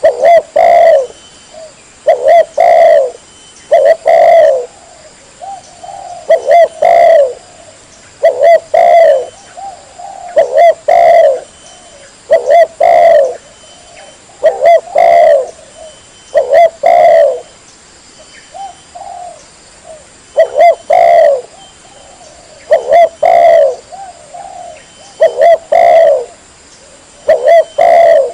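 Spotted dove (tekukur) cooing loudly, its short call phrase repeated about every two seconds.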